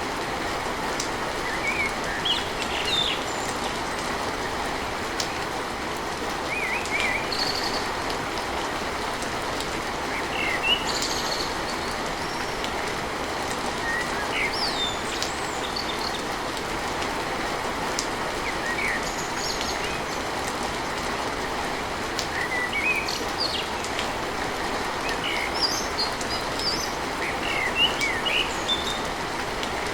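Steady rain on a tin roof, with birds chirping over it in short, quick calls every second or two.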